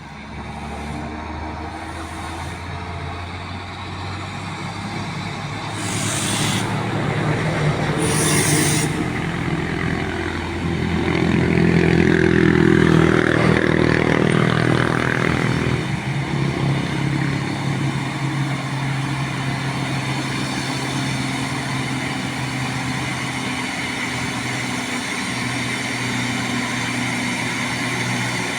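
Mitsubishi Fuso tronton truck's diesel engine running, with two short hisses of air about six and eight seconds in. The engine gets louder in the middle, its pitch sweeping up and then down, before settling to a steady run.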